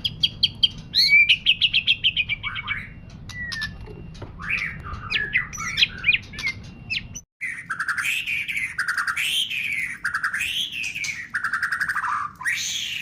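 White-rumped shama singing a varied song of rapid trills and whistled glides. After a short break about seven seconds in, it runs into a repeated rising-and-falling warbled phrase.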